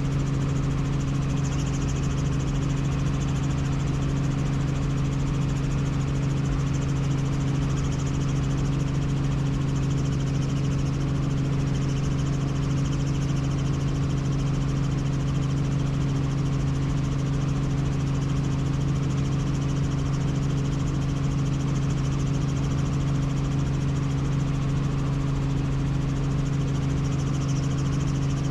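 Helicopter in flight: a steady drone of engine and rotors with an even low hum and a second tone an octave above it, unchanging throughout.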